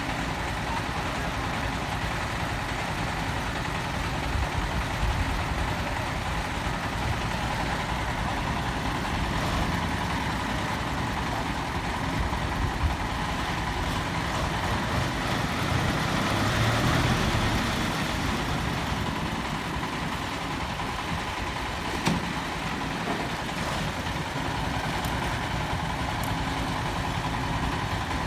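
Dump truck engine running steadily, swelling louder for a couple of seconds past the middle, with a sharp knock about 22 seconds in.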